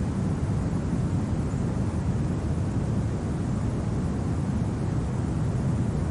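Steady, low-pitched winter wind noise, even and unbroken, with no crackles, knocks or other distinct sounds.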